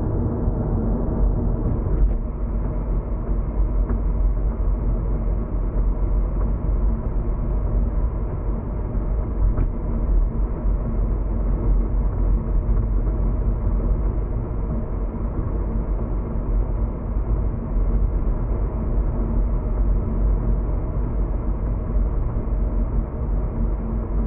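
Car driving along a road, heard inside the cabin: a steady low rumble of tyres and engine, with a couple of small ticks.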